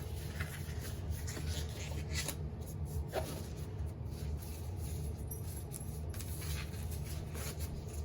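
Faint scattered rustling and rubbing of disposable gloves being pulled onto the hands, over a steady low hum.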